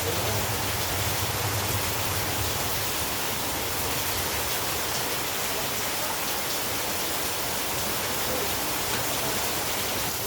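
Heavy rain falling steadily, a continuous even hiss of noise.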